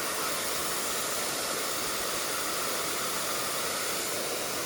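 Steady rush of a mountain valley stream's flowing water.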